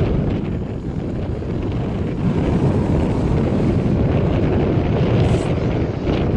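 Wind buffeting the microphone: a steady low rumble and rushing with no clear pitch.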